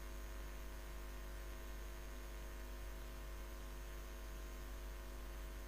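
Steady low electrical hum with a faint hiss, unchanging throughout; no handling or pouring sounds stand out.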